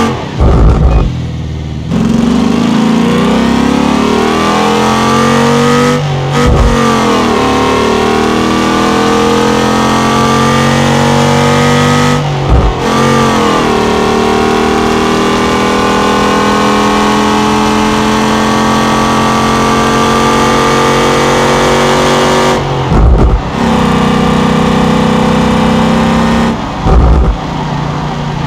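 V8 engine revving hard, its pitch climbing in long sweeps that are broken several times by a short, loud, low thump.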